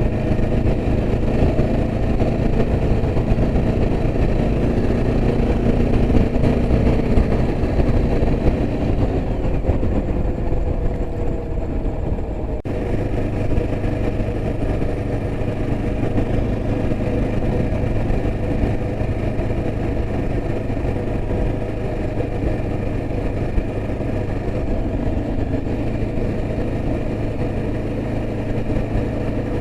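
Yezdi Adventure's single-cylinder engine running steadily while the motorcycle is ridden, its note over a low rumble of road noise. The sound changes abruptly about twelve seconds in.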